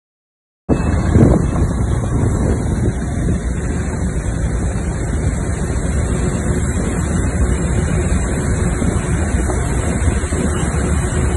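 Steady low rumble of aircraft and ground-handling machinery running on an airport apron during cargo loading, with wind noise on the microphone. It starts abruptly just under a second in.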